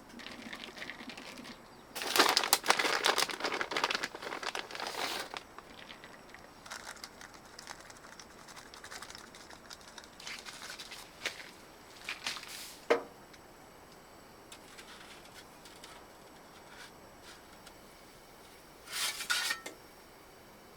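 Intermittent crinkling and crackling handling noises, with a burst of about three seconds near the start, a sharp click partway through and a shorter burst near the end.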